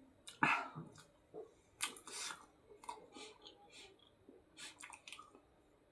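A person eating close to the microphone: chewing and wet mouth smacks in short, irregular bursts. The loudest comes about half a second in.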